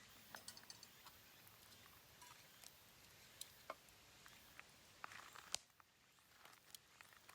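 Faint, scattered crackles and clicks of a wood bonfire burning, with one sharper pop about five and a half seconds in.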